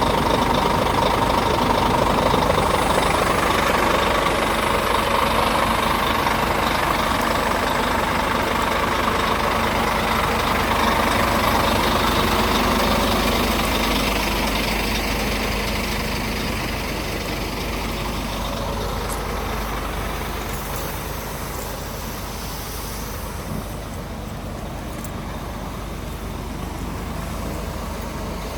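Scania G400 tipper truck's diesel engine idling steadily; it gets gradually quieter about halfway through.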